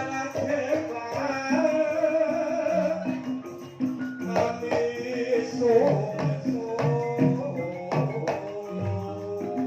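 Banyumasan gamelan music in the ebeg style: pitched struck notes over hand-drum strokes, with a wavering melodic line above.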